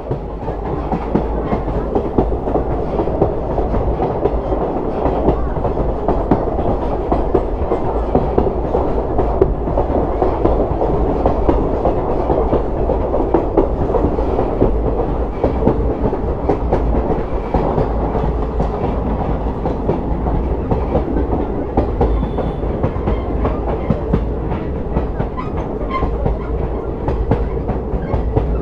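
Train running along the track, heard from on board: a steady rolling noise with the wheels clattering over the rail joints.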